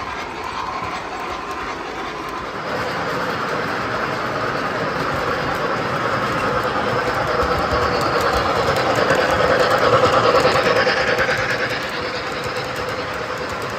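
MTH model train running on its track: a steady rolling rumble with clickety-clack of the wheels, growing louder to a peak about ten seconds in, then dropping back.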